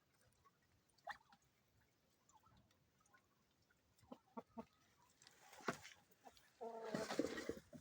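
Faint clicks and rustling of caged poultry, then near the end one short, harsh call from a domestic bird lasting about half a second.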